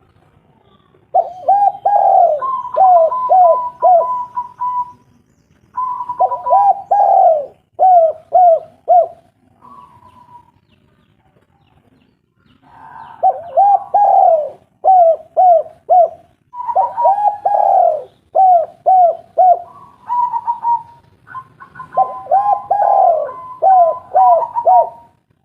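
Spotted doves cooing: five phrases, each a run of four to six short, hoarse coos. A higher held note runs over several of the phrases. This is the kind of song played as a lure to get other spotted doves calling.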